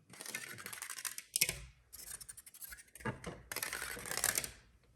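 Rapid tapping and scratching on objects, a dense patter of fine clicks and scrapes coming in three bursts of one to two seconds each.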